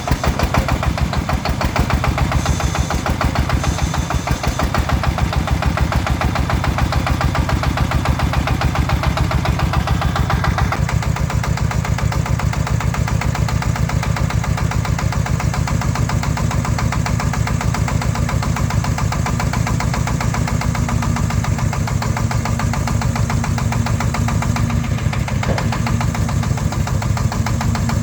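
Farm truck's diesel engine running with an even, rapid pulsing beat. About ten seconds in, the higher noise drops away while the engine keeps running.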